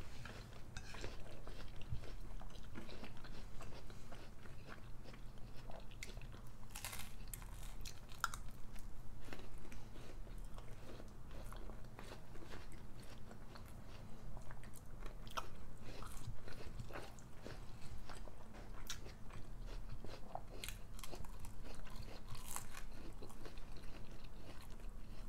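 Close-miked chewing and crunching of a spoonful of yogurt with apple pieces and chocolate granola, with many small crisp crunches one after another.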